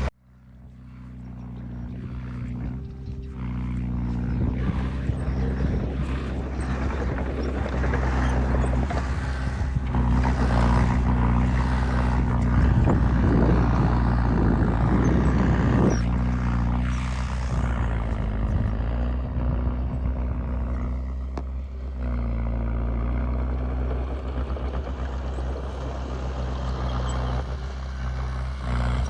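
Heavy diesel engine of earthmoving machinery running steadily, fading in at the start. It grows louder and rougher with clattering in the middle, as if working under load.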